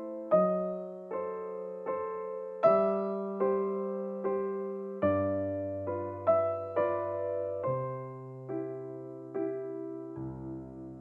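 Slow, gentle solo piano music: single notes struck about once every three-quarters of a second, each ringing and dying away, over lower bass notes that come in about halfway. It settles on a held chord near the end that fades out.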